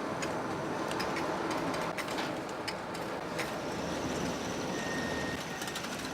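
Mail-sorting office machinery running: a steady mechanical noise with irregular clicks and taps throughout.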